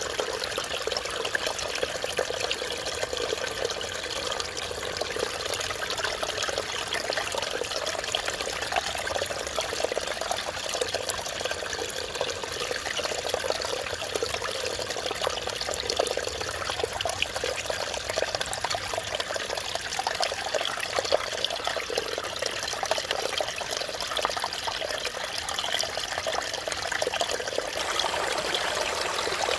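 Mountain valley stream flowing over rocks: a steady babble and trickle of running water.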